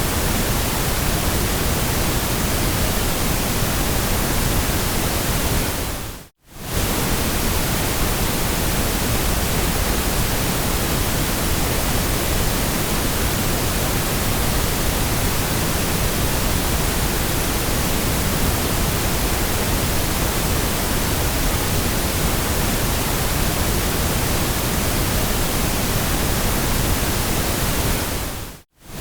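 Steady white noise: an even, full-range hiss with no changes in pitch or rhythm. It fades out and straight back in twice, briefly, about six seconds in and just before the end.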